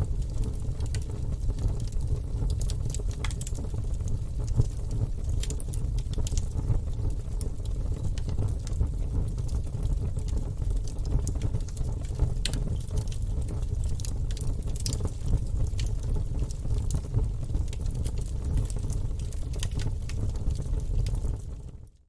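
Wood fire burning in a fireplace: a steady low rumble of the flames with scattered sharp crackles and pops from the logs. The sound fades out to silence at the very end.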